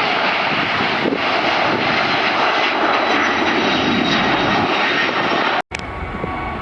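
Jet airliner engines, a loud, steady rushing noise. It breaks off abruptly just past five and a half seconds, then carries on quieter with more low rumble.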